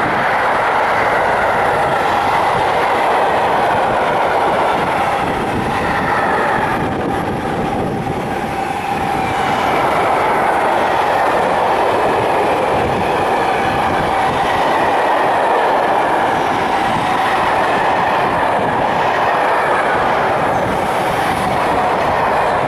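Mixed freight train, hauled by an SNCF BB 26000 Sybic electric locomotive, rolling steadily past, its wheels running on the rails with a loud continuous rumble and faint ringing tones that drift slowly in pitch.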